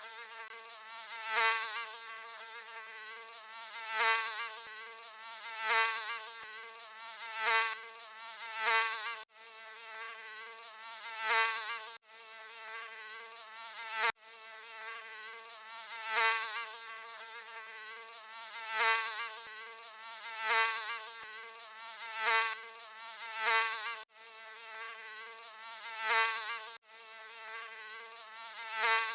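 Mosquito wings whining in a thin, wavering buzz that swells loud roughly every couple of seconds, as if the insect passes close by. A few abrupt short breaks cut in where the looped recording is spliced.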